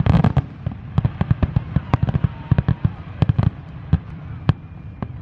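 Aerial fireworks in a finale barrage: a rapid string of overlapping shell bursts and bangs, very dense about the first second, then thinning to scattered single reports.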